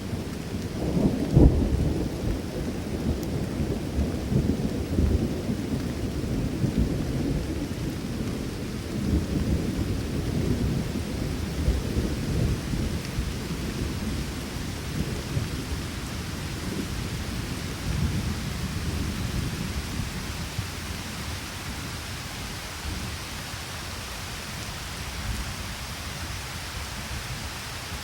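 Steady rain with thunder rolling, loudest in a sharp peak about a second and a half in. The rumble dies away over the last several seconds while the rain goes on.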